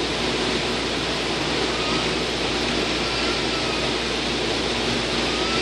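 Steady running noise of a JFK AirTrain car, heard from inside as it travels along the elevated guideway, with a faint wavering whine coming in about two seconds in.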